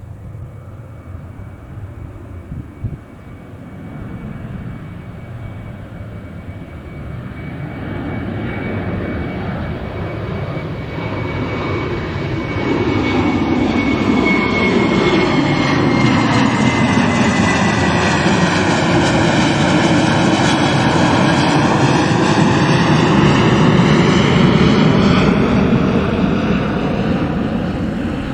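Boeing 737-800's CFM56 turbofan engines at takeoff power, growing steadily louder as the jet passes and easing off near the end. A high whine drifts slightly lower in pitch, and the engine noise takes on a swirling, phasing sweep as the aircraft goes by.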